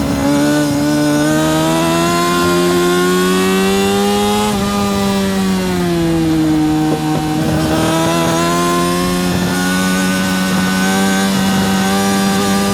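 Yamaha R6 RJ03's 600cc inline-four engine at racing speed, heard onboard. Its note climbs slowly for about four seconds, drops over about a second as it comes off the throttle, then holds and climbs again, with wind rush over the top.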